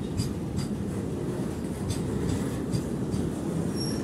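Container freight train rolling past: a steady low rumble of the wagons with scattered clicks of wheels over rail joints, and a brief high wheel squeal near the end.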